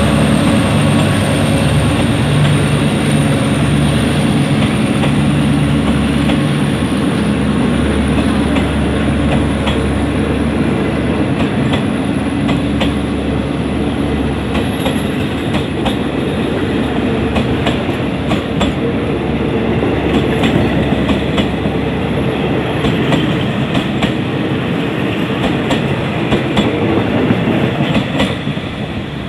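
Passenger coaches of a departing train rolling past close by, their wheels clicking over the rail joints in a steady rumble. A low diesel engine drone from the locomotive sounds under the first several seconds.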